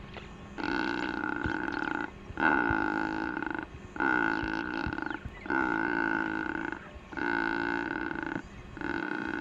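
Secretarybird calling: a run of about six drawn-out calls, each roughly a second long with short breaks between, the third the loudest.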